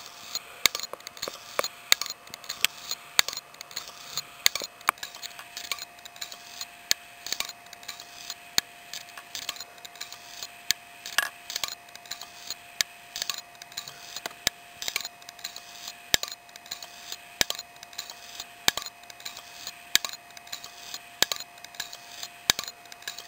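Failing hard disk drive clicking over and over at an irregular pace, several clicks a second, over a faint steady whine. The abnormal noise of a drive that the BIOS does not recognise.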